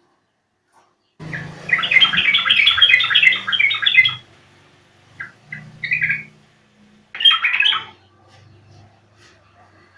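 Yellow-vented bulbul singing: after a second of silence, a rapid run of chattering notes lasting about three seconds, then a few short separate notes, and a second, shorter run after about seven seconds.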